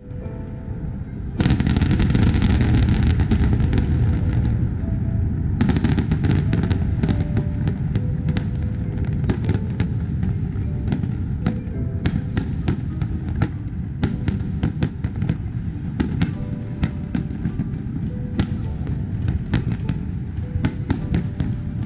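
Fireworks display: about a second and a half in, a loud dense crackle sets in, and from about five seconds on it becomes a rapid string of sharp bangs and crackles. Music plays underneath.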